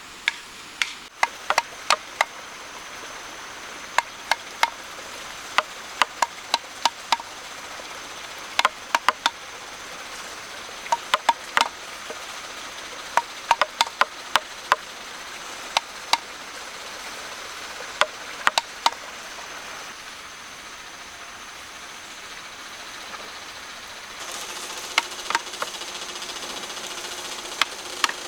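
Sharp hand-tool strikes on wood, coming singly and in quick pairs or clusters at an irregular pace. A steady mechanical noise comes in near the end.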